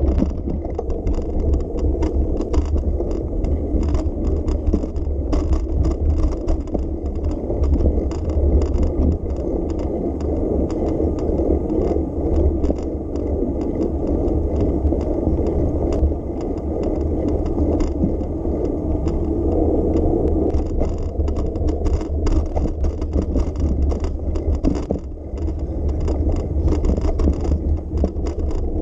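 Bicycle ride from a bike-mounted camera: steady wind rumble on the microphone and rolling tyre noise, with frequent small rattles and clicks throughout.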